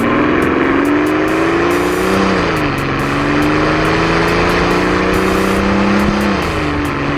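Mercedes-Benz CL65 AMG's twin-turbo V12 accelerating hard: the engine note climbs steadily, drops at an upshift about two seconds in, climbs again, and drops at a second upshift near the end.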